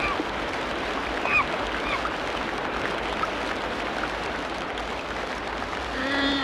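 Tropical rainforest ambience: a steady hiss of background noise with several short bird calls between about one and two seconds in, and a brief lower-pitched animal call near the end.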